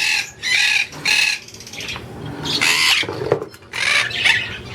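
Quaker parrots (monk parakeets) squawking: a run of short, harsh, raspy calls, three in quick succession, a brief pause, then several more.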